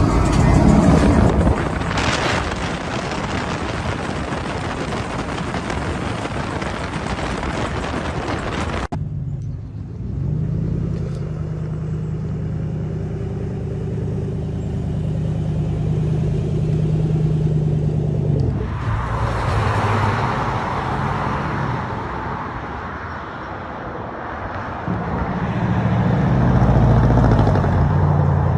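Pickup trucks with loud aftermarket exhausts running. About nine seconds in there is a sudden cut to one engine idling with a steady low note, and the louder engine sound returns near the middle.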